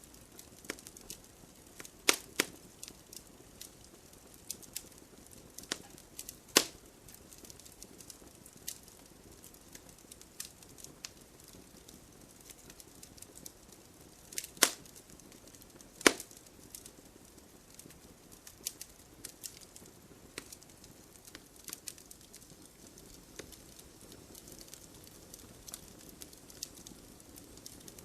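Campfire crackling: scattered small snaps from burning wood over a soft hiss, with a few sharper, louder pops, the loudest about two, six and a half, fourteen and a half and sixteen seconds in.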